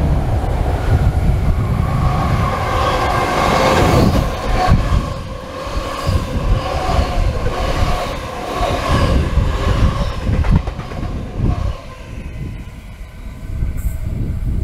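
Double-deck electric passenger train passing close by on overhead-wired track: a rising rush of wheel-on-rail rumble that peaks about four seconds in, then a run of clicks as the carriages' wheels cross the rail joints, fading as the last car goes by near the end.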